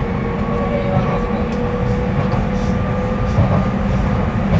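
Docklands Light Railway train running: a steady low rumble with a few faint steady whining tones over it.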